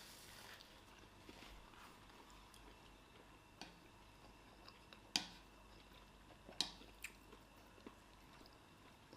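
Faint eating sounds: quiet chewing broken by a handful of sharp clicks, the loudest about five seconds in.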